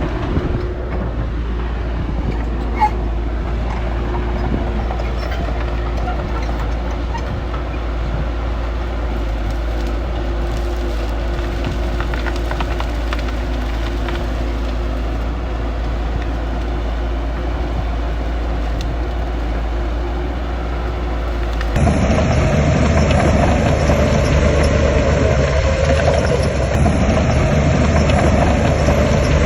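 Heavy earthmoving machinery engine running steadily. About 22 seconds in, the sound cuts abruptly to a louder engine sound from another shot.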